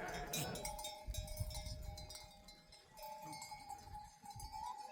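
Bells hung on sheep clinking and ringing as the flock moves, with sustained ringing tones under repeated short clinks.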